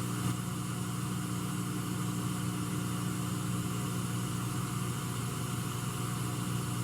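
A steady low hum with an even hiss, unchanging throughout, with no speech.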